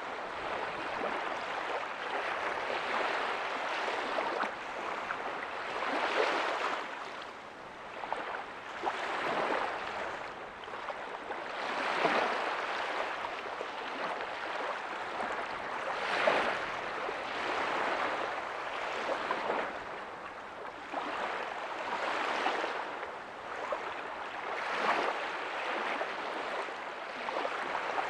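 Small ocean waves breaking softly on a beach: a steady wash of surf that swells and falls back every few seconds.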